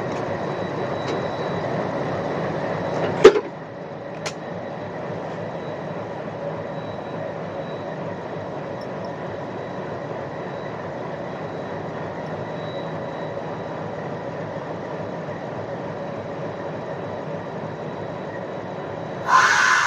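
Train running on the track with a steady rumble and hum, a sharp loud clank about three seconds in and a lighter one a second later. A louder, brighter sound comes in near the end.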